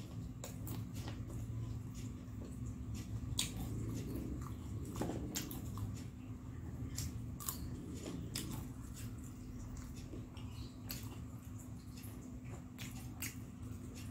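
Close-miked chewing of crispy Indonesian fried snacks (gorengan): scattered crunchy clicks and soft mouth sounds at an uneven pace. A steady low hum runs underneath.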